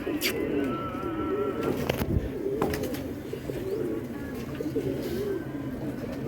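Several domestic pigeons cooing at once in overlapping, wavering low calls, with a few sharp clicks among them.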